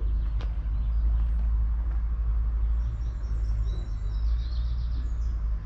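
Low, steady drone of the Case IH Puma 240 CVX tractor's 6.7-litre six-cylinder diesel engine running. Small birds chirp in quick high series from about three seconds in.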